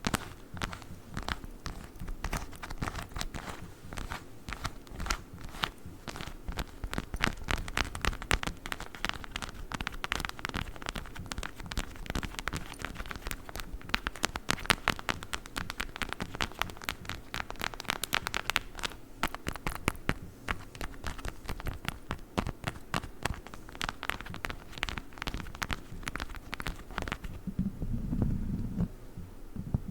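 Fast, dense crackly tapping and scratching right on the microphone from a witch-finger prop, a fake finger with a long pointed nail. Near the end the clicks stop and a low rubbing rumble takes over.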